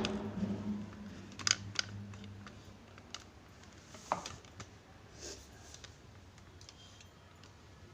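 A few light clicks and knocks of plastic food containers being handled and set down on fridge shelves, spaced a second or so apart, with a low hum that fades out in the first couple of seconds.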